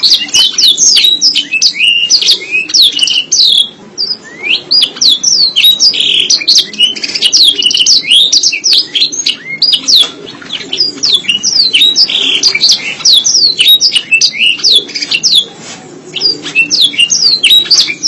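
Domestic canary singing a long, fast song of rapid down-slurred notes and trills, broken only by brief pauses about four, ten and sixteen seconds in.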